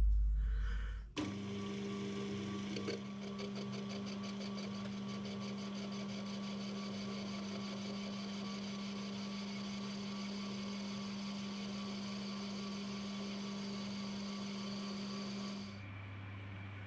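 Metal lathe running steadily while boring out a cast-iron casting, a steady machine hum with a clear whine. About a second from the end the sound drops to a lower, slightly quieter hum.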